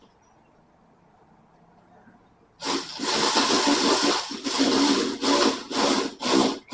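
Cordless power tool driving a rocker cover bolt down on a 4JX1 diesel engine. It runs for about two seconds, then in short trigger bursts as the bolt tightens.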